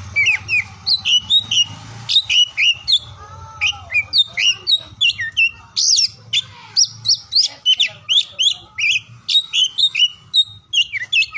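Oriental magpie-robin singing: a fast, continuous run of varied whistled notes, many sweeping up or down, about three or four a second.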